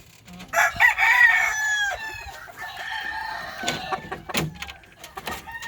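Game roosters crowing, the loudest crow starting about half a second in and lasting over a second, with other fowl calling and a few sharp clicks after it.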